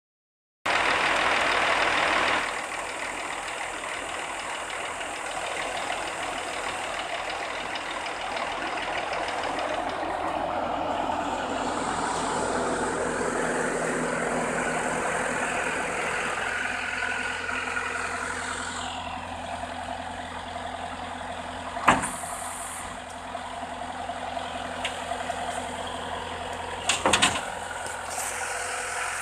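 Scania 114C 380 truck's 11-litre straight-six diesel engine running steadily. About two-thirds of the way through there is a sudden short burst, and near the end a quick cluster of sharp clicks or knocks.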